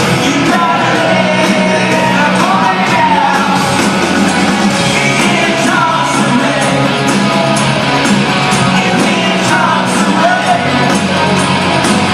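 Loud rock music: a sung, partly shouted lead vocal over a band with a steady drum beat.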